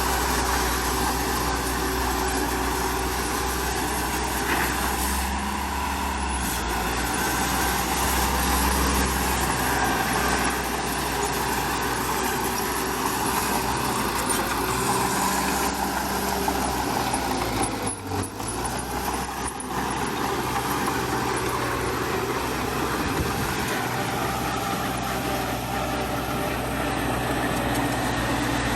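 Heavy diesel engine of earthmoving machinery running steadily at an even, low speed, with a brief drop in level about two-thirds of the way through.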